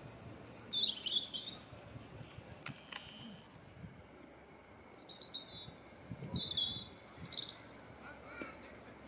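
Small birds chirping in short high trills and chirps, several times over, with a pair of sharp clicks about three seconds in.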